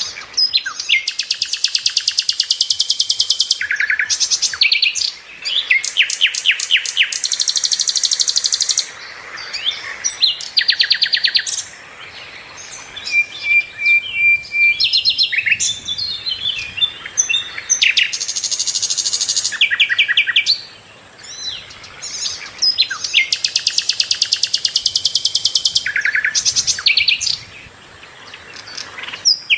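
A sikatan londo flycatcher singing at length: loud, very fast high-pitched trills, each a second or two long, repeated one after another with short chattering notes in the gaps.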